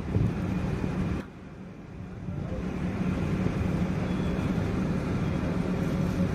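Storm wind buffeting the microphone as a loud, low rumble. It dies down sharply about a second in, then builds back up and holds.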